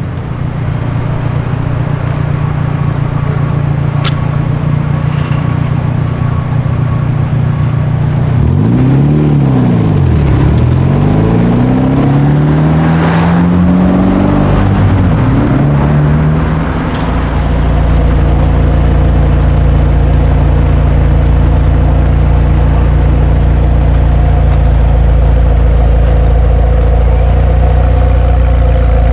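A car engine runs steadily, then is revved several times from about a third of the way in, its pitch climbing and falling in a few swells, before settling back into a steady lower drone.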